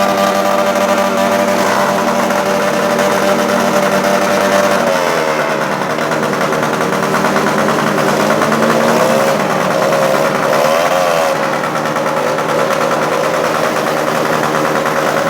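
Motorcycle engines running at a traffic light: a steady idle for the first few seconds, then the engine note rising and falling as throttles are blipped and the bikes pull away.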